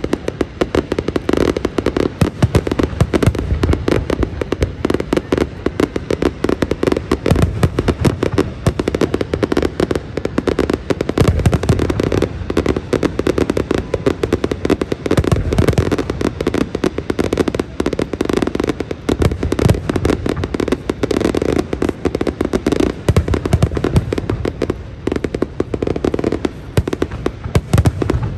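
Fireworks display in full barrage: a rapid, unbroken string of bangs from bursting aerial shells, mixed with crackling, with no pause in the firing.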